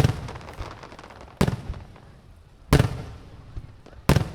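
Aerial fireworks shells bursting: four sharp booms a little under a second and a half apart, each trailing off in a fading rumble.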